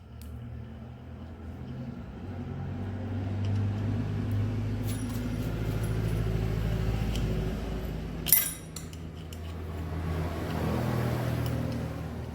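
A motor vehicle engine running, its level swelling up and easing off twice, with one sharp metallic clink a little after eight seconds.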